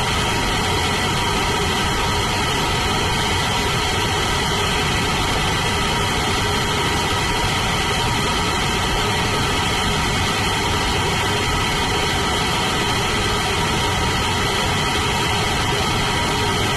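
Blue Origin BE-4 methane-oxygen rocket engine firing on a test stand: a loud, steady rushing noise with some faint constant tones in it, unchanging in level throughout.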